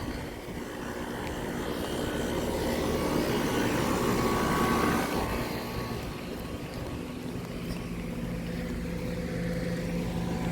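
Outdoor central air conditioner condenser units running: a rushing fan noise that swells and then eases off over a few seconds, over a steady low hum.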